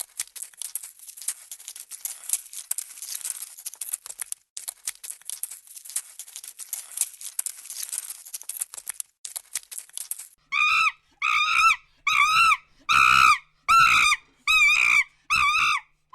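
A dry, high, rapid rattling that stops about ten seconds in, followed by eight short honking calls from a bird in an even series.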